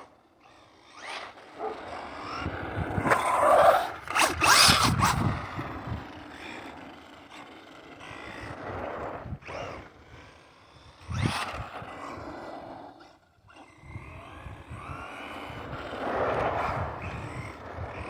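Arrma Vorteks 2WD 1/10 RC truck's brushless motor on a 3S pack, whining in bursts as the truck accelerates and runs past, with tyre noise. The loudest bursts come about four seconds in, again near eleven seconds and around sixteen seconds.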